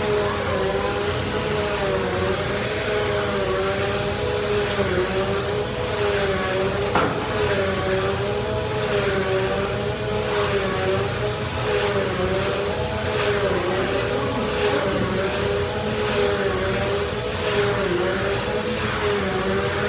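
Bissell Easy Vac vacuum cleaner (model 3130) running steadily, its motor whine wavering slightly up and down in pitch over a constant rush of air.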